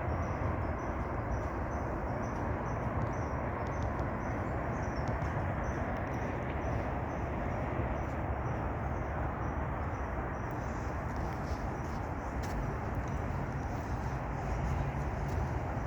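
Steady outdoor background noise with a strong low rumble. A faint high chirp repeats about two to three times a second through the first ten seconds or so, then fades out.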